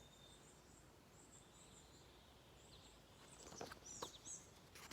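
Near silence with faint, high bird chirps in the background, a few short ones at first and more from about three seconds in.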